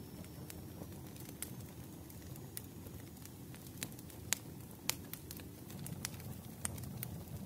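Wood fire crackling in a fireplace: a low steady rumble with scattered sharp pops, the loudest a little after four seconds and near five seconds in.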